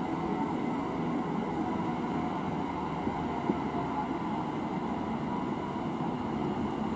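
Train running at a station, a steady rumble with a faint even whine. One short click about three and a half seconds in.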